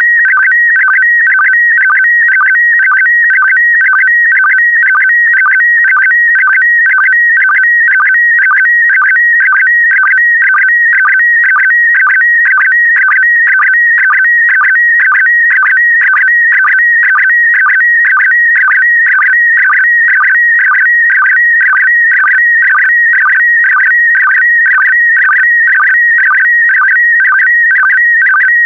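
Slow-scan TV signal in PD120 mode transmitting image data: a loud, warbling electronic tone held between about 1.5 and 2 kHz, pulsing in a steady rhythm about twice a second as each pair of picture lines is sent.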